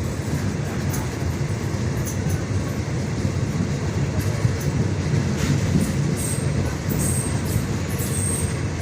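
Train running on the rails: a steady low rumble with occasional clicks from the wheels on the track, and a faint thin high squeal coming and going near the end.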